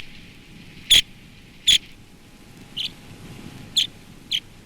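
Pectoral sandpiper calling: about six short, sharp calls at irregular intervals, roughly a second apart.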